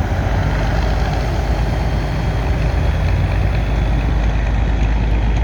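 Trial truck's engine running steadily at low revs, a continuous low rumble.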